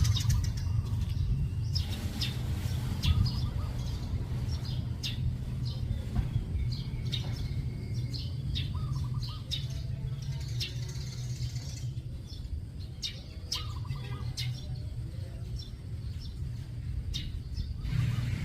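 Birds chirping in many short, sharp calls, with a couple of brief lower warbling calls about halfway through, over a steady low rumble.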